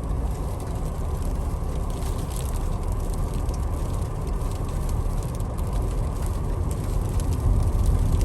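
Steady road, tyre and drivetrain noise heard inside the cabin of a Ford Explorer ST SUV driving through fresh snow.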